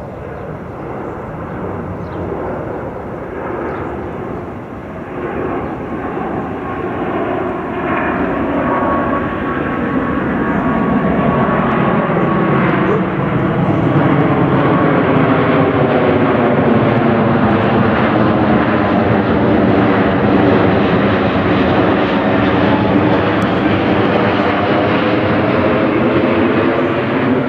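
Airbus A380 four-engine jet airliner flying by, its engine noise building over about twelve seconds and then holding loud, with a phasing tone that sweeps up and down through the sound.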